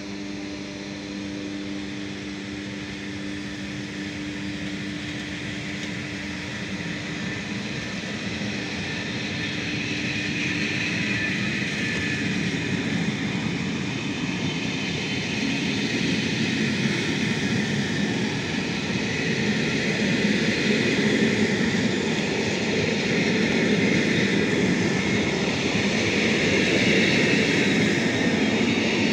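Electric locomotive pulling a passenger train out of the station. Its steady electrical hum fades about ten seconds in, while the rolling noise of the coaches' wheels on the rails grows steadily louder as the train passes.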